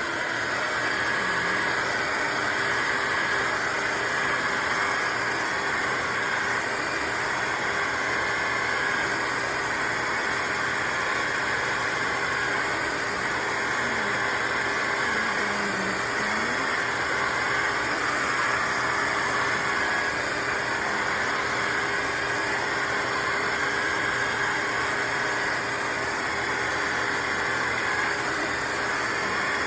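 Shark HydroVac MessMaster cordless wet-dry vacuum mop running steadily on its stain-boost setting: an even motor hum and rush of suction with a constant whine.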